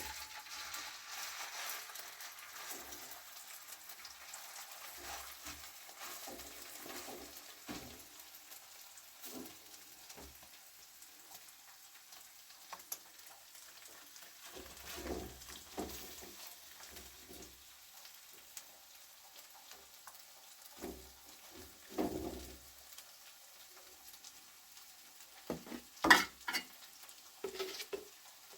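Wild plants frying in oil in a pan, a steady sizzle that is strongest at first, with a utensil stirring and knocking against the pan now and then. There is a sharp, loud knock near the end.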